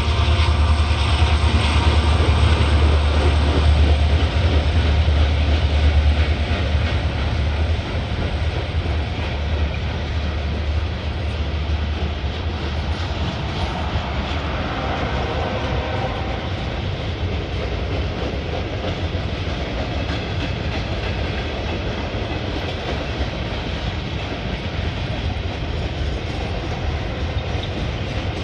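Norfolk Southern freight train passing close by: a diesel locomotive's deep engine rumble for the first several seconds, then fading, leaving the steady rolling noise of freight cars on the rails.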